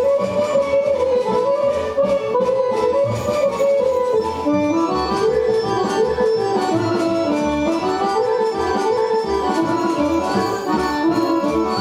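Accordion-led traditional Serbian folk dance music, a quick melody in repeated phrases over a steady low beat; the tune moves to a lower register about four and a half seconds in.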